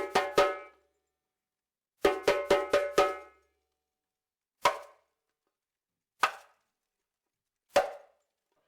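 A pitched percussion instrument struck in short runs: quick groups of four or five hits, then three single hits about a second and a half apart.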